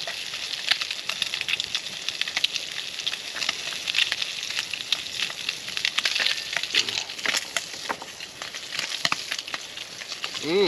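Spam sizzling in a skillet over a crackling campfire: a steady hiss with many sharp pops. A short rising-and-falling hum comes right at the end.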